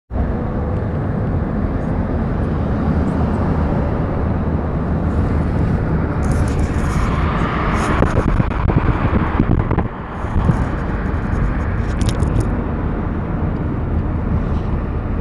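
Wind buffeting the microphone: a loud, steady low rumble and rush, with a brief dip about ten seconds in.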